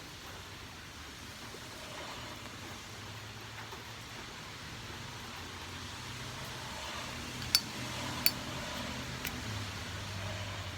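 Steady rain with the hum of highway traffic. A few sharp clicks come near the end.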